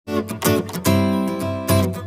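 Background music: strummed acoustic guitar, starting abruptly.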